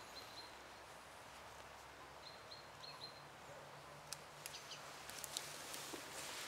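Faint woodland ambience: a small bird gives short, high chirps in a couple of quick groups over a steady hiss and low hum. A few sharp clicks come about four to five seconds in.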